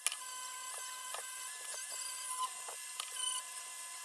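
Small hand-held power tool's motor running steadily with a high whine, with a few scattered light ticks from the work.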